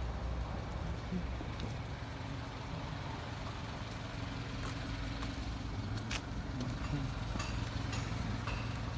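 Subaru Sambar kei truck's 660 cc EN07 four-cylinder engine idling steadily, with a few light clicks.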